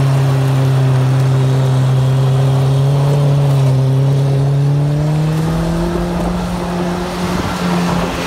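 Modified car's engine held at high revs at a steady pitch, climbing to a higher steady pitch about halfway through.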